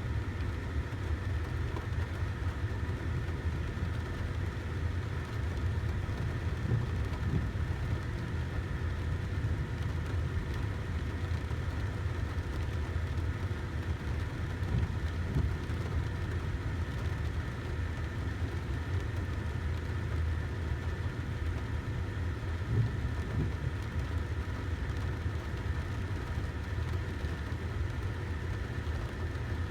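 Car engine idling: a steady low hum with a few faint fixed tones above it.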